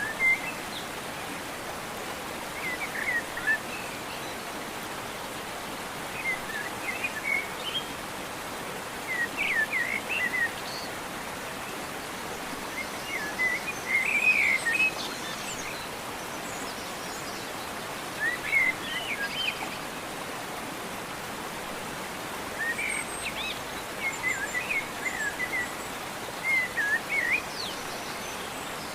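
Birds singing short, chirping phrases every few seconds over a steady rushing background hiss.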